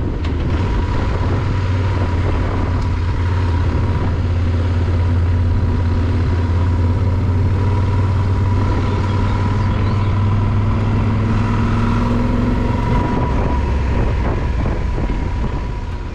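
Motorcycle running at a steady speed, a loud, even low engine drone with a thin steady whine above it.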